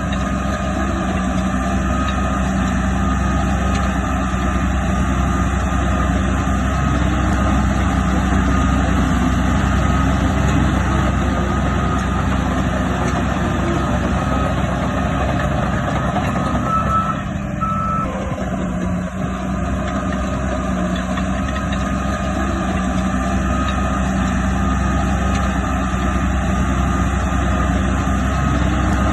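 Heavy diesel earthmoving machinery running steadily, with a reversing alarm beeping repeatedly over the engine noise as a machine backs up. The engine dips briefly a little past halfway through.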